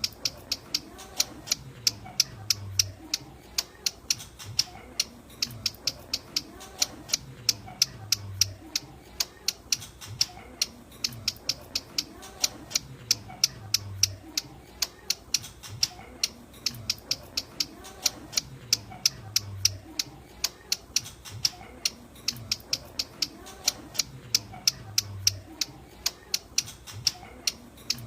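Ciblek gunung, a prinia, calling in a fast, steady series of sharp, dry, high ticking notes, several a second, which sounds like typing.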